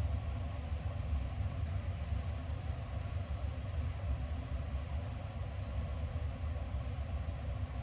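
Steady low rumble with a fainter hiss over it, unchanging throughout, with no distinct knocks or events.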